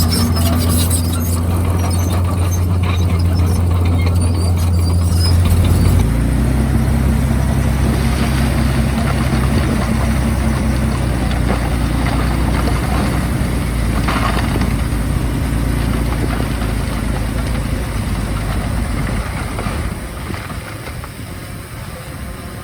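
Komatsu D51PX bulldozer's diesel engine running under work, with scattered high squeaks in the first couple of seconds. The engine note drops about six seconds in and the sound eases off over the last few seconds.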